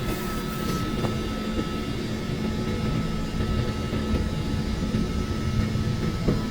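Steady rumble of a commuter train carriage running along the track, heard from inside the car, with a constant low hum over it.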